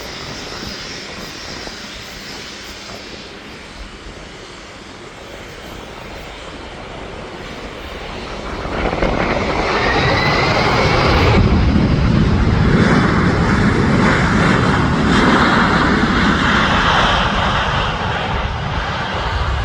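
Boeing 747-400's four jet engines passing close: the sound grows much louder about eight seconds in and stays loud, with a brief rising whine near ten seconds.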